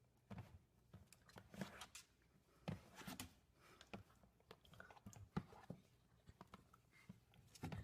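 Faint, irregular clicks and crunches, a few a second, with a slightly louder one near the middle.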